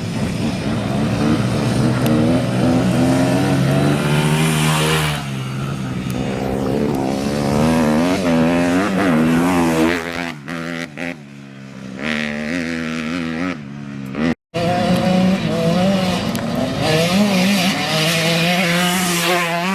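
Dirt bike engines racing, revving up and down as the riders work through the gears, with the sound cutting out briefly about two-thirds of the way through.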